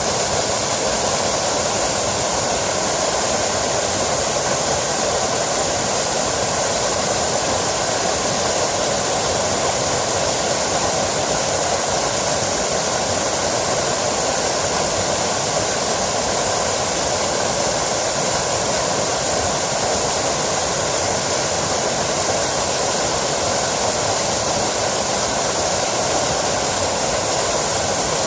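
A small mountain stream spilling over a small waterfall, its water making a steady, even rush.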